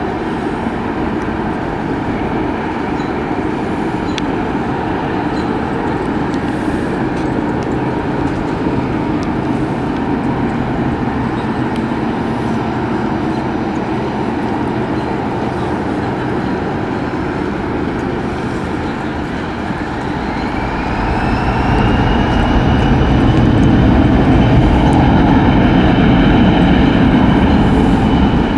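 Passenger train rolling through a curve, a steady rumble that grows louder about two-thirds of the way in. At the same time a high wheel squeal rises in pitch and then holds.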